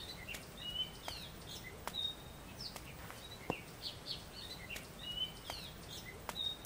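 Birds chirping outdoors: many short high chirps and whistled notes, some rising or falling, coming every fraction of a second, with a few faint taps.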